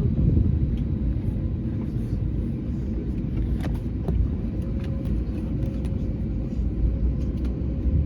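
Steady low rumble of an Airbus A321neo heard from inside the cabin, with a faint constant hum and a few light clicks.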